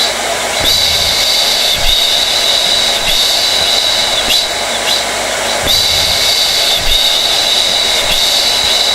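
Hair dryer running steadily: a loud airy rush with a high motor whine. The whine dips briefly about once a second in a repeating pattern.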